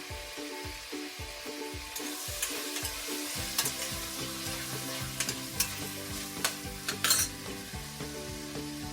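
Chicken frying and sizzling in hot oil with onions and turmeric, being stirred: a steady sizzle with scattered clicks and scrapes of the stirring spoon against the pan, the sharpest about seven seconds in.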